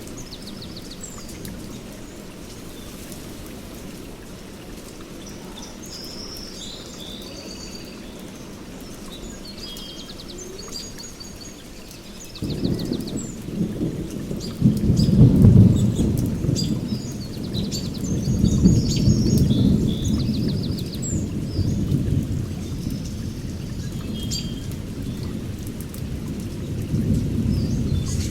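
Steady rainforest rain with birds chirping and trilling, then about twelve seconds in a long, rolling rumble of thunder comes in suddenly, swells and keeps rumbling through the rest.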